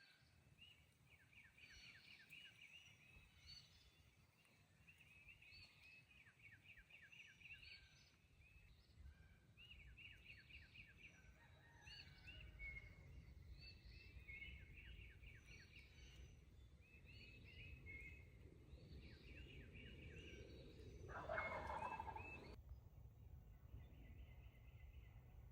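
Faint gobbling of an Eastern wild turkey, with one louder gobble about 21 seconds in, amid repeated songbird calls.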